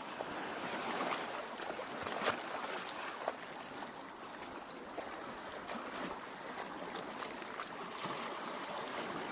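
Lake water lapping and gurgling at the shore: a steady wash of water with a few brief small splashes.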